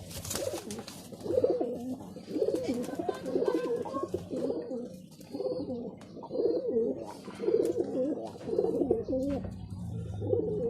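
Domestic pigeons cooing in a loft: a run of low, warbling coo phrases, one after another about once a second, with a few sharp clicks among them.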